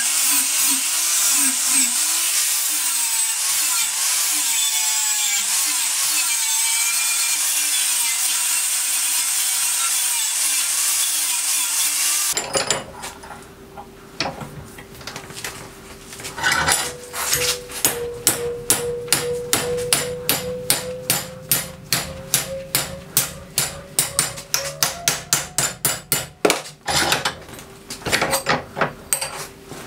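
DeWalt angle grinder running steadily under load as it grinds a weld on a steel plate; it cuts off about twelve seconds in. Then a steel flat bar clamped in a bench vise is hammered to bend it: a long series of sharp metal-on-metal blows, about two to three a second.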